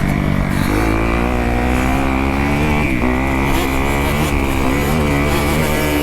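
2018 Kawasaki KX250F's single-cylinder four-stroke engine running under hard riding, its pitch climbing under throttle, dropping sharply about three seconds in as the throttle is chopped or a gear changes, then rising and falling again.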